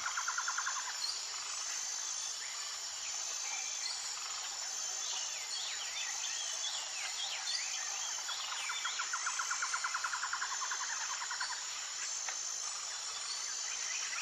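Birds calling over a steady high-pitched insect drone: a rapid trill at the very start and again for a couple of seconds past the middle, with quick sweeping chirps in between.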